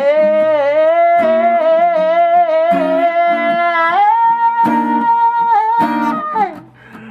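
Soul vocal holding a long wordless note with vibrato, stepping up to a higher held note about four seconds in, over strummed acoustic guitar. Voice and guitar drop out briefly near the end, then the guitar comes back in.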